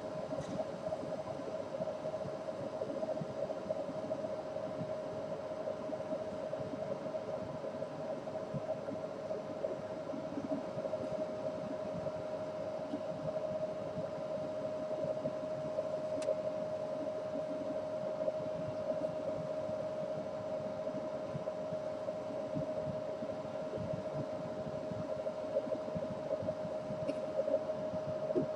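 A steady mechanical hum: one constant mid-pitched tone with fainter tones above it, over an even hiss, unchanging throughout, with a faint tick or two.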